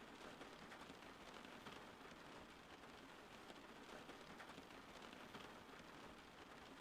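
Faint, steady rain falling, an even hiss with fine drop patter.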